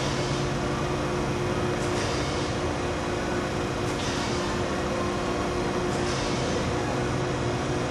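ACER AGS-2040SD surface grinder running under one-edge auto downfeed: a steady machine hum with a faint swish about every two seconds.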